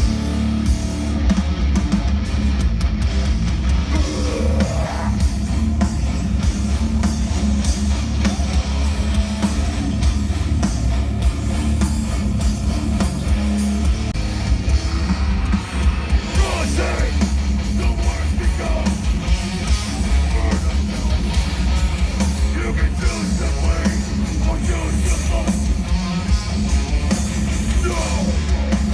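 A hardcore band playing live and loud: heavy distorted guitars and drums pounding without a break, with vocals in the mix.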